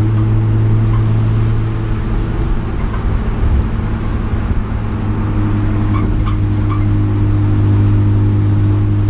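Race car engine heard from inside the stripped cockpit, droning steadily at constant revs while cruising, with a few faint clicks about six seconds in.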